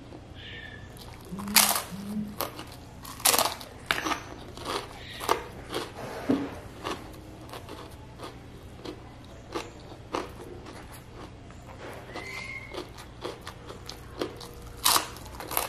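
Close-up mouth sounds of a person biting and chewing a crisp fried cracker: sharp crunches, loudest about a second and a half in, around three seconds in and near the end, between quieter chewing.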